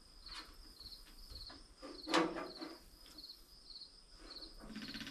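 Crickets chirping steadily, with a few knocks and one louder clank of handling about two seconds in. Near the end a rapid, even ticking starts: the truck's electric clicking fuel pump switched on after being hooked back up.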